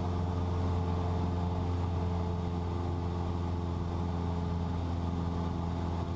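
Cessna 172's piston engine and propeller in cruise flight: a steady, even drone with a strong low hum and several fixed tones above it, heard inside the cabin.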